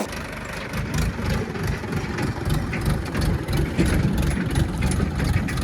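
Heavy diesel engine of a tractor or backhoe loader running steadily at low speed, with a rapid clattering knock.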